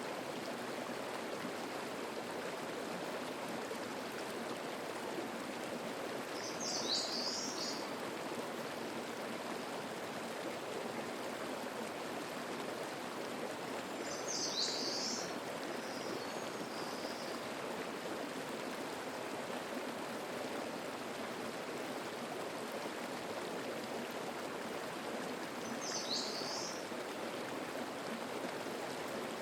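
Mountain stream babbling steadily over rocks, with a songbird giving a short, high, falling call three times, about every seven to twelve seconds.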